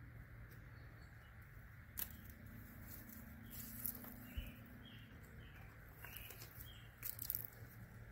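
Faint outdoor ambience with a few short bird chirps and several sharp clicks.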